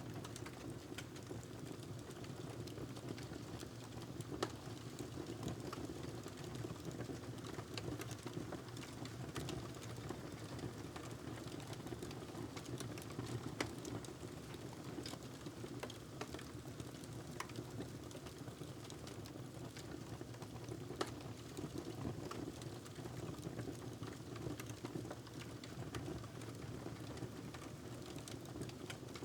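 Wood fire crackling steadily over a low rumble, with scattered small snaps and a few louder pops.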